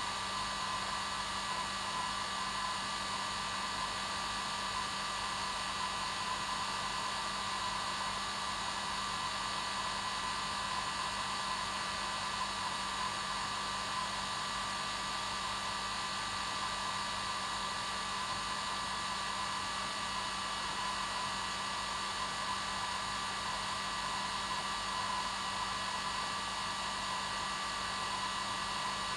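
Hair dryer running steadily at its normal setting: an unchanging blowing hiss with a steady motor hum.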